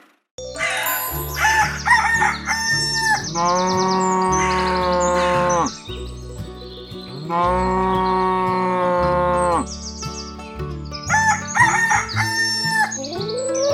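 A music track with a stepping bass line, overlaid by two long rooster crows and quick bird-like chirps at the start and near the end.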